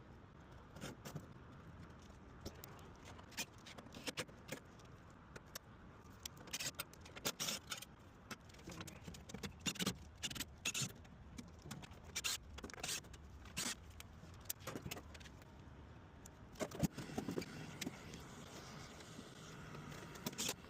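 Irregular sharp clicks and clinks, as of metal tools or small metal parts being handled, over a steady low background noise.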